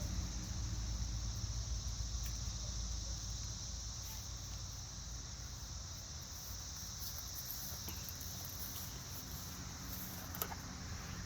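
A steady, high-pitched outdoor insect chorus, like crickets or cicadas, with a low rumble fading out over the first few seconds and a couple of faint clicks near the end.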